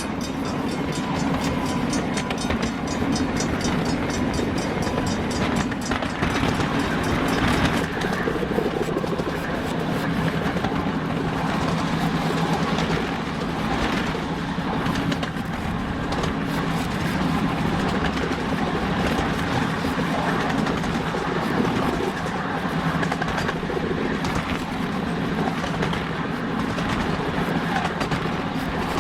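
Train running along the track: a steady rumble of wheels on rails with some clickety-clack.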